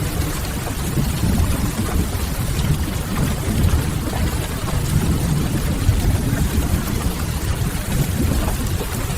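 Rain-and-fireplace ambience: a steady rain hiss over a deep, constant low rumble, with no distinct events.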